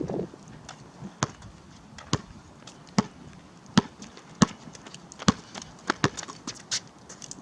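Basketball dribbled on a hard court, a sharp bounce roughly every second, coming a little quicker near the end.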